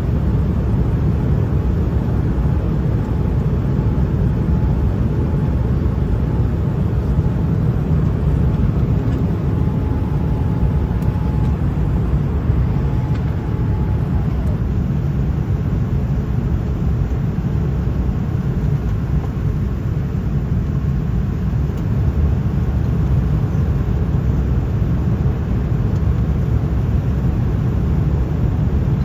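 Airliner cabin noise in flight: the steady, low, even rush of engines and airflow, with a faint steady tone partway through.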